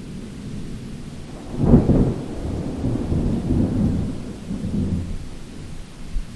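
Thunder during a rainstorm: a low rumble builds, breaks into a sharp clap about a second and a half in, then rolls on and fades, over steady rain.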